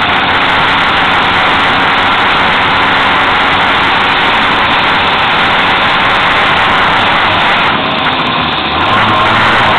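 Fiat 126's engine running hard at speed, heard from inside the car together with road and wind noise. Near the end the engine note drops for about a second, then picks up again.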